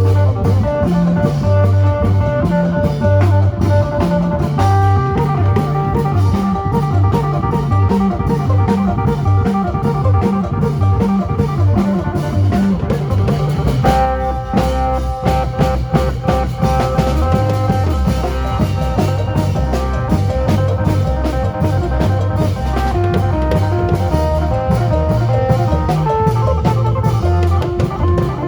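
Isan phin band playing lam phloen: a plucked phin lute carrying the melody over a drum kit and bass with a steady, driving beat, the melody changing to a new phrase about halfway through.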